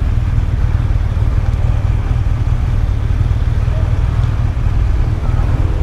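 Motorcycle running, a steady low rumble with no change through the few seconds.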